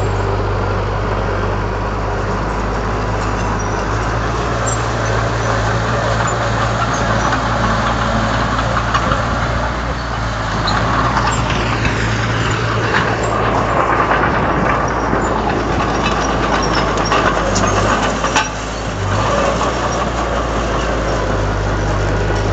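Komatsu D31 bulldozer's diesel engine running steadily with a low hum, working harder and louder for several seconds in the middle. There is a sharp click near the end.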